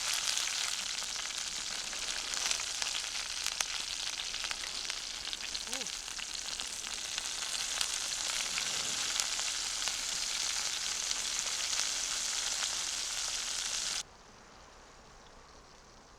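Food sizzling in a hot pan with a steady hiss and fine crackles, cutting off abruptly near the end.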